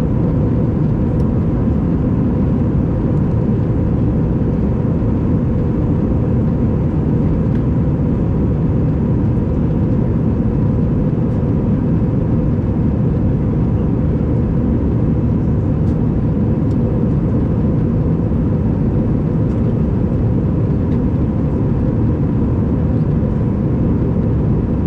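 Steady cabin noise of a jet airliner in flight: an even low rumble of engine and airflow with a faint steady hum, unchanging throughout.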